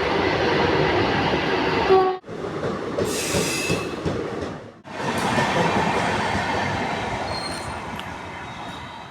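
Indian Railways train running past at close range: wheels rumbling on the rails with some thin, high wheel squeal. The sound cuts off sharply twice and fades away near the end.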